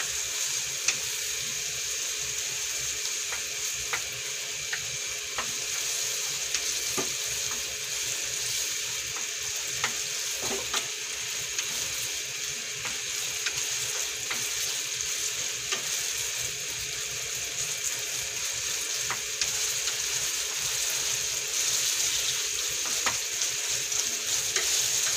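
Pork cubes in tomato paste and tomato sauce sizzling steadily in a nonstick wok as a wooden spatula stirs them, with occasional light taps of the spatula against the pan.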